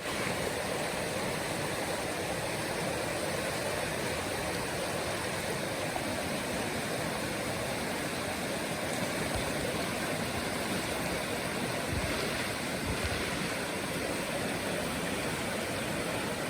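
Small river rapids rushing steadily, an even roar of moving water.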